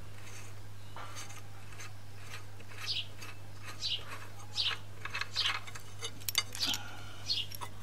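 A small bird chirping over and over, short falling chirps every half second to a second from about three seconds in, with a few light metallic clicks in between and a steady low hum underneath.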